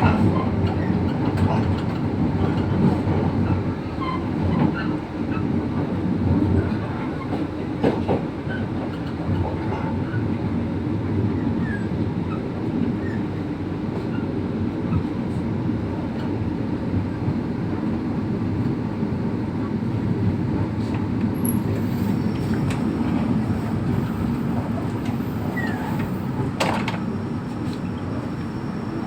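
Passenger train running along the rails, a steady low rumble of wheels and carriages, with a faint knock about eight seconds in and another near the end.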